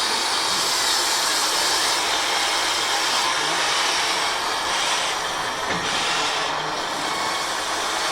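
Radio-controlled scale construction machinery running: a steady mechanical whirring hiss from the models' electric motors and hydraulic pumps, with a low steady hum coming in and out about five seconds in.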